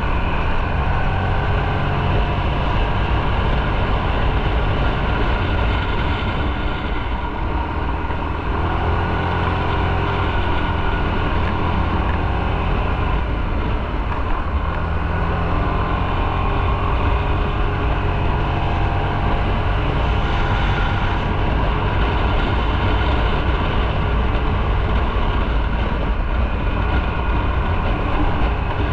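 Motorcycle engine running steadily under way, mixed with wind and road noise, with a deep low rumble.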